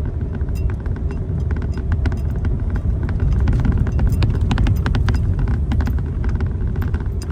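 Car driving slowly over a rough dirt track: a steady low rumble of engine and tyres, with many scattered clicks and knocks from gravel and bumps.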